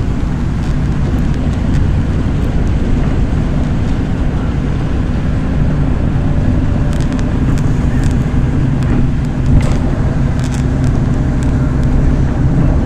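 MAZ-103 city bus in motion, heard on board: a steady engine drone with road noise, and a few sharp rattles and clicks in the second half.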